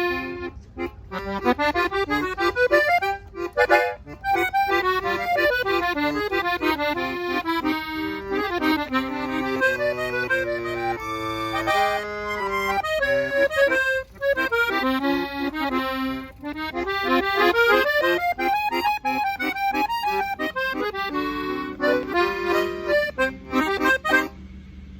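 Solo accordion playing a quick melody over chords, stopping abruptly about 24 seconds in, leaving a low steady background noise.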